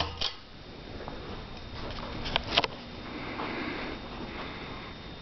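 Hunter Stratford II ceiling fan running quietly on low speed, only a faint steady hiss, with a few light clicks about two and a half seconds in.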